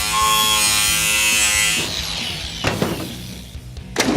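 A steady, pitched mechanical buzz that stops about two seconds in, followed by a few sharp knocks and a loud thud near the end.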